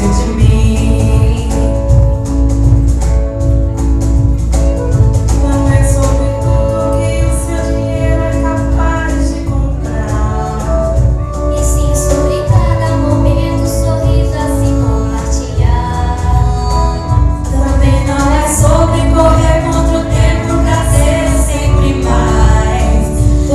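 A song: female voices singing long, held lines over a steady instrumental accompaniment with a strong bass.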